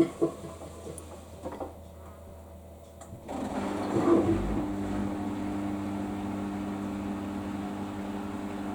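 Samsung washing machine on its Daily Wash 30 cycle: a few clicks and knocks, then about three seconds in a motor in the machine starts up and runs with a steady hum.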